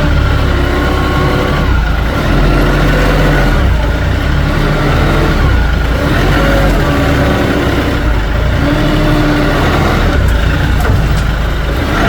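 Kioti NS5310 compact tractor's diesel engine running loud and steady under load while the hydraulic tree puller is worked, with short whining tones that come and go at changing pitches.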